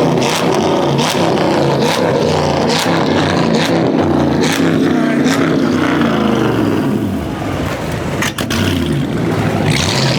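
A car engine revving hard and repeatedly, its pitch rising and falling, with short sharp cracks throughout.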